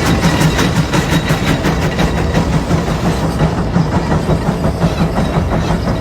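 Case steam traction engine working under load pulling a 36-bottom plow, its exhaust chuffing in rapid, even beats over a steady low mechanical running sound. The sharp top of the beats softens about halfway through.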